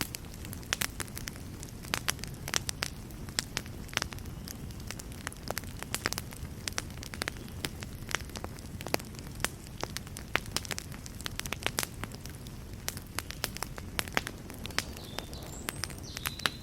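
Wood fire crackling in a fireplace: frequent irregular sharp pops and snaps over a low, steady rush of flame.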